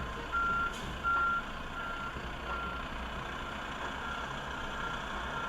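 A utility truck's reversing alarm beeping, a single steady high beep repeating a little faster than once a second, fading away after about two and a half seconds.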